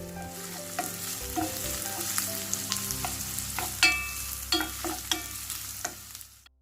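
Chopped onion frying in hot oil in a kadai, sizzling steadily, while a spatula stirs it and clinks against the pan now and then, a few of the strikes ringing. The sound cuts off suddenly near the end.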